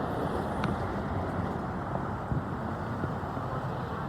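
Steady rumble of road traffic, with one faint pop about two-thirds of a second in.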